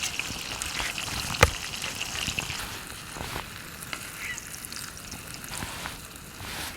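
Steady sizzling and crackling of a campfire with food cooking over it, with small pops throughout and one sharp loud pop about a second and a half in.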